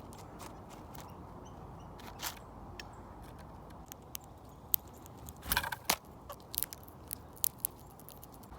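Birds pecking and landing at a backyard feeder: scattered sharp taps and clicks, with a quick cluster of louder knocks about five and a half seconds in, over a low steady outdoor background.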